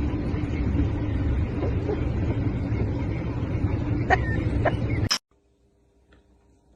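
Steady low rumble with a couple of brief high squeaks a little after four seconds in; it cuts off suddenly about five seconds in, leaving only a faint hum.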